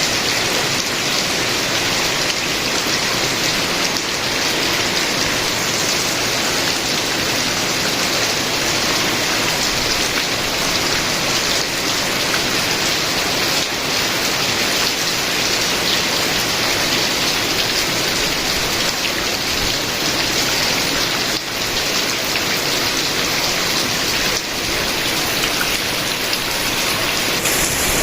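Steady rain falling, an even hiss of drops on a surface without pause.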